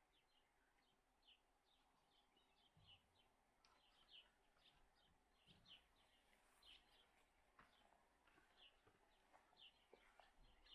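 Faint birds chirping: many short, quick calls repeating throughout, with a few faint clicks in the second half.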